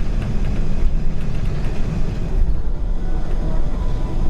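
Steady low rumble inside the cabin of an Airbus A380-800 taxiing after landing, with a few faint rattling ticks in the first couple of seconds.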